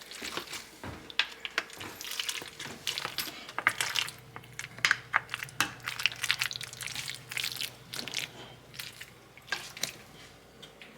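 A plastic bag of shredded cheese crinkling and rustling with many light crackling clicks as it is handled. A steady low hum comes in a few seconds in.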